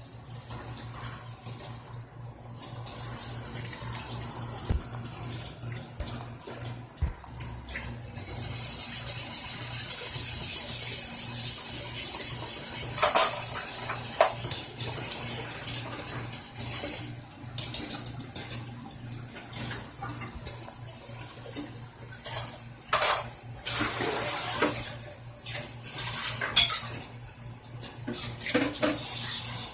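A utensil stirring gravy in a metal pot, scraping and clinking, with three sharper knocks against the pot, over a steady hiss of the gravy cooking on the stove.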